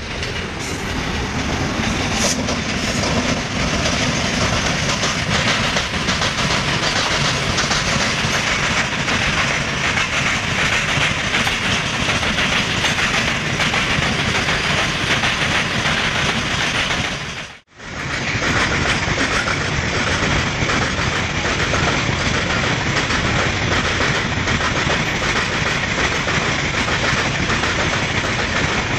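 Goods train of loaded open coal wagons passing at speed, its wheels clattering over the rail joints in a steady, loud run of noise that builds over the first couple of seconds. The sound cuts out for a split second about two-thirds of the way through, then carries on.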